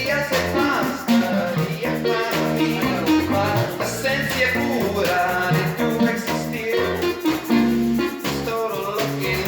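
A live band playing an instrumental stretch of a song: plucked guitar over a bass line, with a steady beat.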